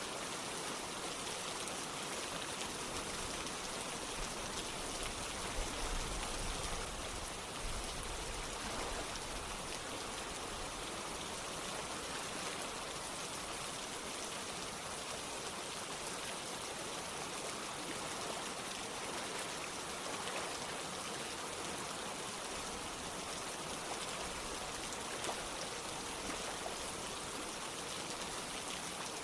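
Steady rain falling together with running water, an even, unbroken hiss and patter. A brief deeper rumble comes through about six seconds in.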